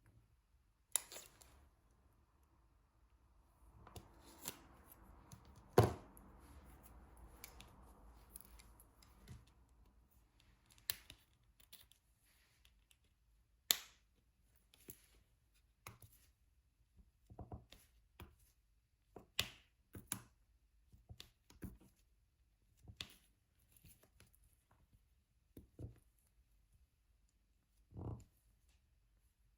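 Diamond painting: a drill pen picking up resin drills and pressing them onto the adhesive canvas, heard as sparse light clicks and taps. A stretch of soft rustling runs from about four to ten seconds in, with one sharper knock near six seconds.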